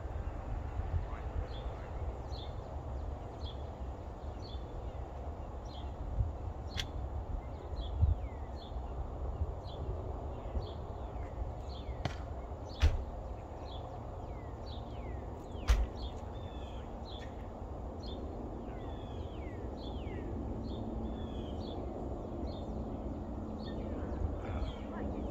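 Small birds chirping steadily, short falling chirps about two a second, over a constant low rumble. A few sharp knocks cut through.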